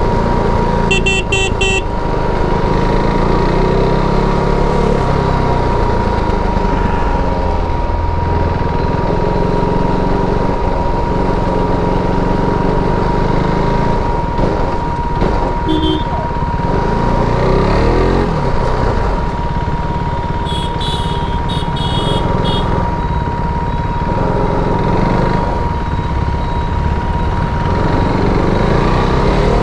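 KTM RC390's single-cylinder engine with its stock exhaust running under way, its pitch rising and falling with the throttle. Other vehicles' horns honk about a second in, briefly in the middle, and in a run of short beeps about two-thirds of the way through.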